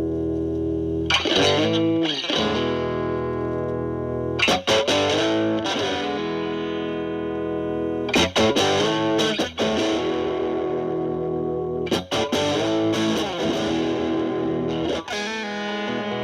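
Fender Stratocaster through a Boss DS-2 Turbo Distortion pedal, turbo mode off and distortion at about 10 o'clock, into a Marshall Valvestate's clean channel, playing distorted lead phrases. A new phrase starts every three to four seconds, with string bends, and the notes are left to sustain between phrases.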